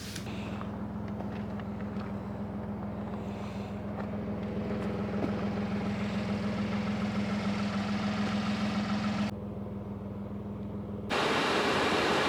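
A vehicle engine idling steadily, a low hum with a few even pitched lines. About eleven seconds in it cuts to a loud, even rushing noise.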